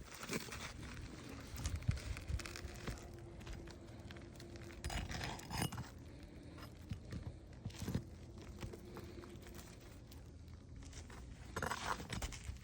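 Scrapes, crunches and light metal clinks of nails being worked loose and an asphalt roof shingle being pried up, in short irregular bursts.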